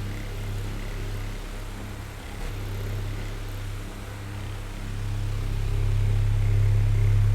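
Oscillating electric fan running: a low motor hum under the whir of moving air, growing louder over the second half as the fan head swings.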